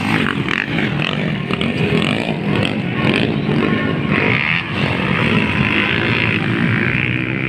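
Motocross dirt bike engines running and revving, with a steady dense engine noise.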